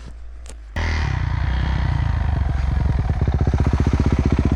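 Dirt bike engine idling, then opened up under throttle a little under a second in, running hard with a fast, even pulse as the rider tries to ride up a snowy climb.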